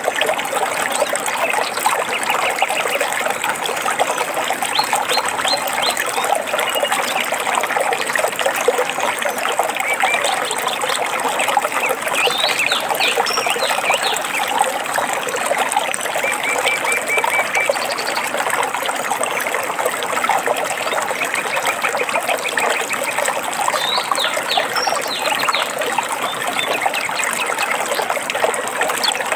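Water trickling and babbling steadily in a forest stream, with birds singing over it: short trills and chirps come and go throughout, including a quick run of repeated notes about two-thirds of the way through.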